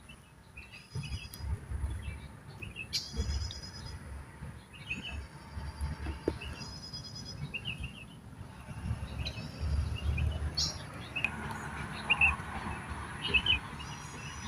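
Wild songbird singing a short, repeated phrase of quick high notes, about once every one to two seconds, over a low rumble.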